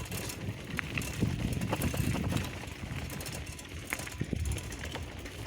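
Bicycle rolling along a dirt track: steady low rumble of tyres and mic handling, with scattered small clicks and rattles.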